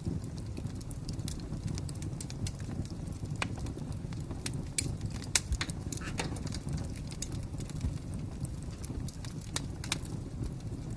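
Wood fire crackling: a steady low rumble of flames with irregular sharp pops and snaps, the loudest pop about halfway through.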